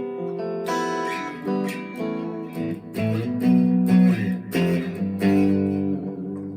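Fender Player II Stratocaster electric guitar played clean through an amp with reverb and delay, chords and picked notes ringing out, on the single-coil neck pickup.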